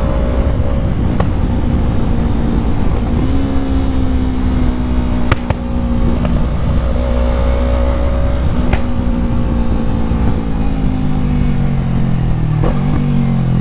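Yamaha MT-03's parallel-twin engine running at a steady cruise, heard from the rider's seat, with two sharp clicks along the way. Near the end the engine note falls as the bike slows.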